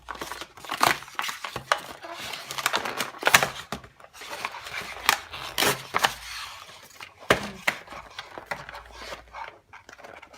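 Toy packaging being torn open and handled: paper and cardboard tearing and crinkling, with irregular sharp crackles and rustles.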